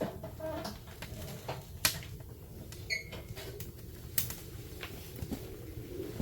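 Firewood fire crackling: irregular sharp snaps and pops, a few of them loud, over a steady low rumble.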